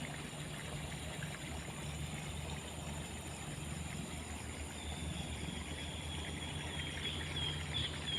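Steady outdoor background by the fishing water: a low, even hum with a trickling-water-like hiss. From about halfway a small animal starts a high, rapidly repeated chirping call that grows louder toward the end.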